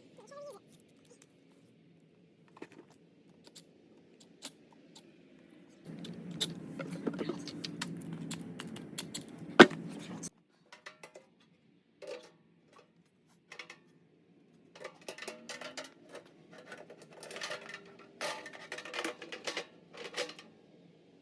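Scattered clicks, clanks and rattles of metal furnace parts and tools being handled, with a denser stretch of scraping and rustling a few seconds in that holds one sharp, loud knock, and a busy run of clicks and rattles near the end.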